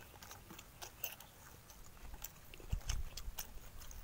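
People chewing and smacking their lips as they eat roasted pig intestines and rice by hand: scattered short wet clicks and small crunches, with a few soft low knocks in the second half.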